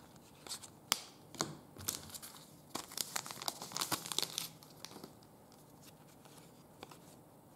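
Crinkling and tearing of plastic trading-card packaging as cards are handled. A few light clicks come in the first second and a half, and the densest crinkling comes about three to four and a half seconds in.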